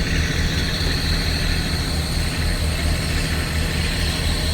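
Heavy diesel engine running steadily: a low pulsing drone with a faint steady whine above it.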